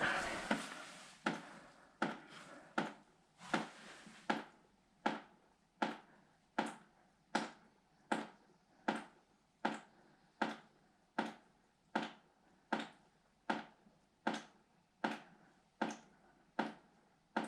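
Water from a leak dripping steadily, about one drip every three-quarters of a second, each a short sharp tap. The leak is still draining with the water supply shut off.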